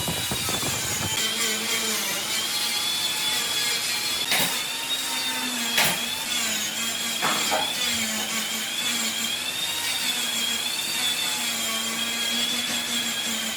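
Electric power tool motor running steadily, its pitch wavering slightly as the load changes. Two sharp knocks come about four and six seconds in.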